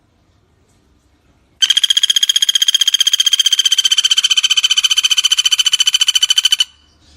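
Pelatuk bawang bird calling one long, rapid trill at a steady high pitch. It starts abruptly about a second and a half in and stops sharply about five seconds later.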